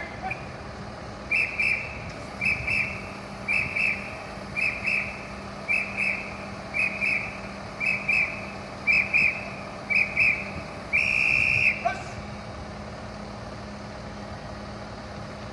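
Whistle blown in short double blasts, about one pair a second, nine times, then one longer blast, over a steady low hum.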